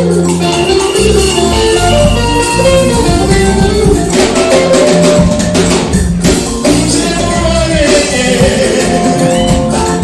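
Upbeat live church worship band music, with drums and percussion playing a steady dance rhythm and held instrument notes.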